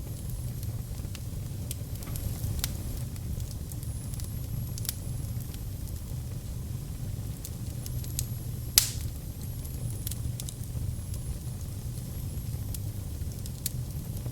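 Wood fire burning in a fireplace: a steady low rumble with scattered sharp crackles and pops, one loud pop about nine seconds in.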